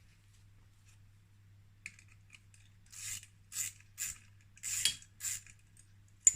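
Metal clutch spring bolts and coil springs from a Kawasaki KX80 clutch clinking as they are taken out and handled: about five short, bright clinks roughly half a second apart, then a sharp click near the end.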